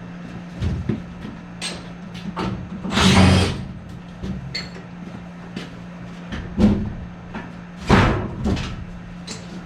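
Sheet metal being cut and pulled apart during the tear-out of old HVAC equipment: irregular clanks and scrapes, the loudest a short harsh scrape about three seconds in and another cluster near the end, over a steady low hum.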